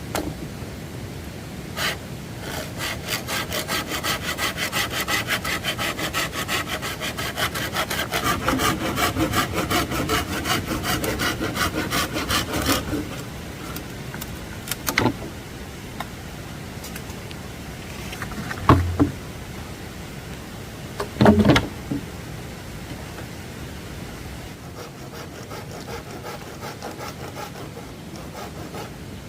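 Hand saw cutting through wood in fast, even back-and-forth strokes for about ten seconds, then stopping. A few separate knocks follow.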